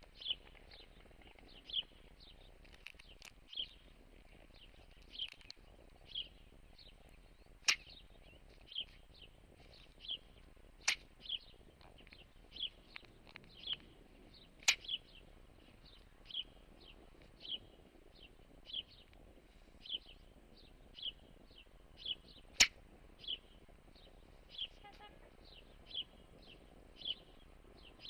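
A bird repeating a short, high chirp about once a second at the same pitch, with a few sharp clicks now and then, the loudest a little past the middle.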